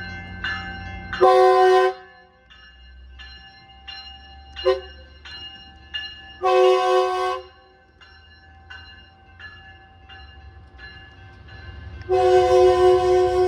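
Metrolink train's horn blowing three long blasts and one short toot, the short one between the first two long ones. Under it a bell rings steadily about every two-thirds of a second over the low rumble of the train.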